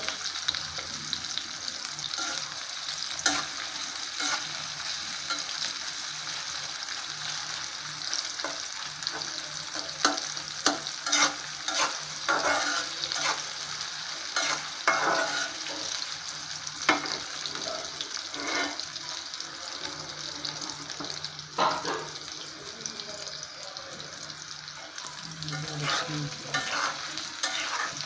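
Sliced onions and bay leaves frying in hot oil in a metal pot: a steady sizzle, with a metal spatula scraping and knocking against the pot as they are stirred now and then, most often in the second half.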